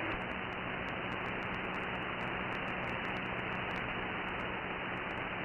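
CB radio receiver putting out steady static hiss after the transmitter unkeys, narrow and muffled, with nothing above the voice range, a faint steady hum under it and faint ticks of interference.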